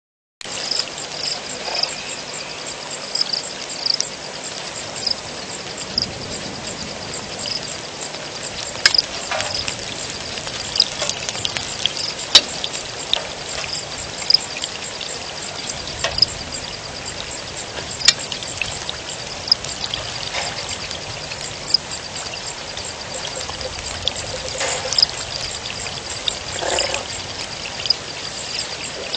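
Rain falling with water pouring and trickling, and scattered sharp drips and taps. Over it, a high-pitched call pulses a few times a second throughout.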